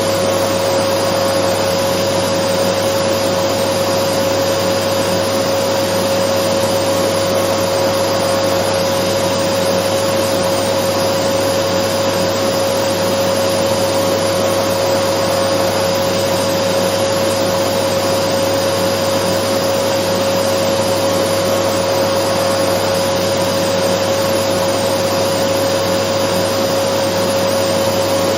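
Dyson vacuum cleaner running steadily: an even rushing noise with a whine held on one pitch.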